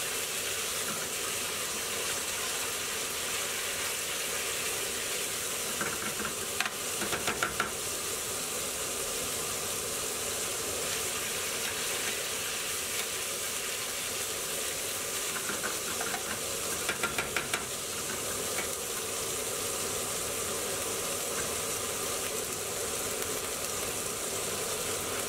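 Garlic and ginger paste sizzling in hot oil in a metal pan, a steady hiss, while a metal spoon stirs it. Runs of quick clinks and scrapes from the spoon against the pan come about six seconds in and again around sixteen seconds.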